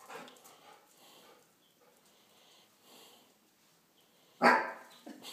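A dog barks once, loud and short, about four and a half seconds in, after a few faint low sounds.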